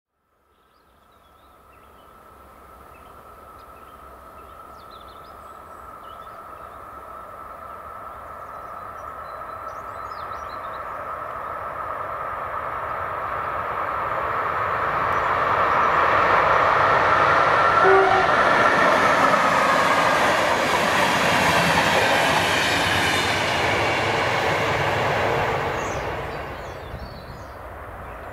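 Electric locomotive hauling passenger coaches passing on the line: steady rail noise that grows over about fifteen seconds to a loud wheel-on-rail rumble as the train goes by, then falls away quickly near the end. Faint bird chirps near the start and end.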